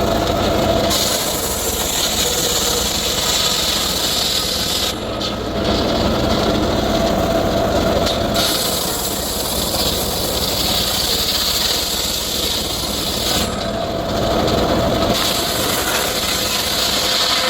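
Circular saw running and cutting teak wood, a steady hissing cut that eases twice, about five seconds in and again after about thirteen seconds, while the saw keeps running.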